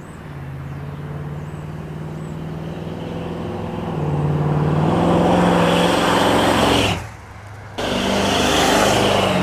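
Big-block Ford 460 V8 running loud, its engine note stepping up in pitch about four seconds in, then cutting off abruptly for under a second near the end before picking back up.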